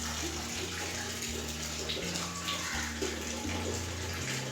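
Water running steadily into a container, the splashing pour of a drinker being filled.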